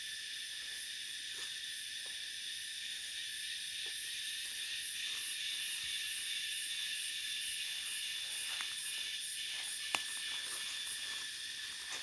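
Steady, high-pitched chorus of forest insects, in several even bands with a faint pulsing at the top. A single sharp click comes about ten seconds in.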